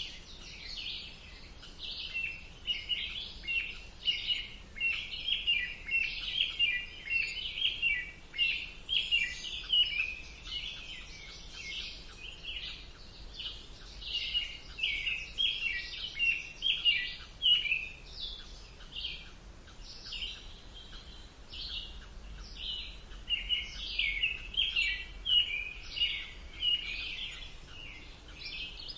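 Songbirds chirping and singing in a dense run of quick, high chirps, easing off briefly twice before picking up again.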